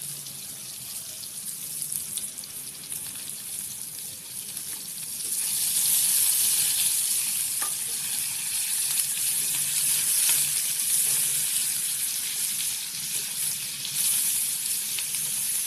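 Marinated chicken pieces sizzling in hot oil in a frying pan, a steady hiss that grows louder from about five seconds in while a spatula turns the pieces over.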